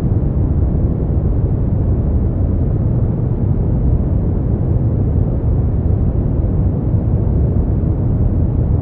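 Steady generated sleep noise, deep and rumbling, with most of its weight in the bass and no hiss at the top. It runs unchanged, with no events.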